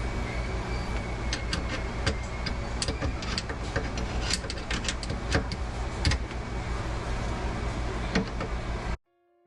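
Garbage disposal running: a steady motor hum with scattered sharp clicks and rattles, cutting off suddenly near the end.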